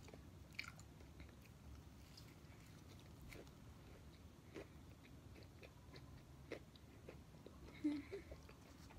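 Faint chewing of a fried chicken sandwich just bitten into, with soft scattered mouth clicks and a brief low sound near the end.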